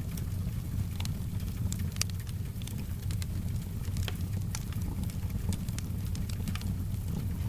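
Wood fire crackling, with frequent sharp pops and snaps scattered over a steady low rumble, and soft rain in the background.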